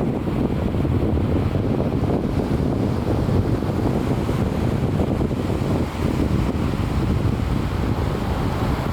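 Wind buffeting the microphone: a steady, loud low rumble with no let-up.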